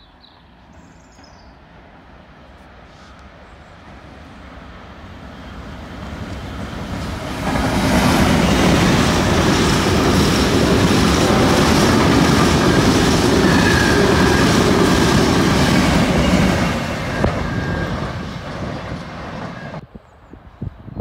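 Diesel-hauled freight train of hopper wagons approaching and passing close by. The rumble builds over the first several seconds and jumps sharply about a third of the way in as the train draws level. It stays loud with the wagon wheels running over the rails, then fades and cuts off near the end.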